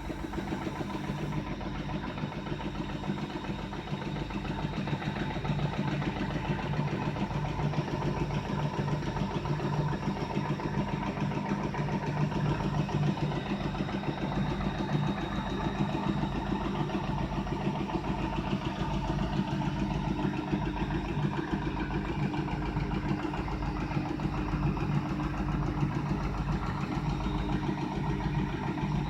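Old single-cylinder diesel engine (a 'pancar motoru') running steadily at idle with an even, regular beat.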